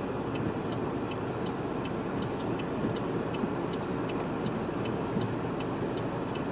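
Steady rumble of a vehicle, with a car's indicator relay clicking evenly about three times a second.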